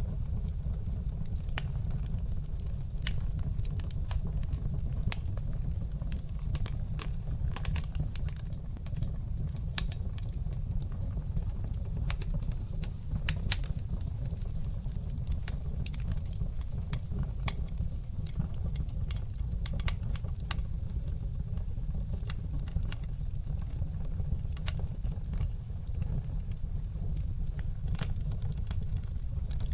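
Wood fire burning in a fireplace: a steady low rumble of flames under frequent, irregular crackles and sharp pops, with a couple of louder pops about halfway through.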